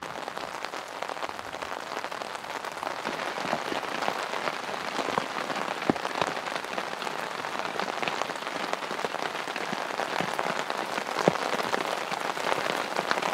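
Steady rain falling on the canvas of a lavvu tent, heard from inside: a dense hiss of drops with many scattered sharper drop ticks.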